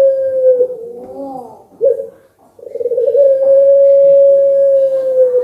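Puter pelung turtle dove giving its long drawn-out coo: a steady held note that ends about half a second in, a short note near two seconds, then another long held note starting just before three seconds.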